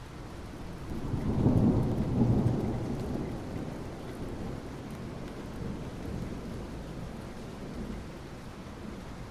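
Steady soft rain on asphalt, with a low rumble of thunder that swells about a second in, is loudest around two seconds, then slowly dies away.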